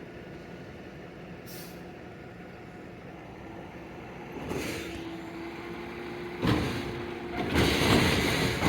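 Garbage truck running at idle, with short hisses of released air, a steady whine from about halfway, and loud noisy clatter near the end.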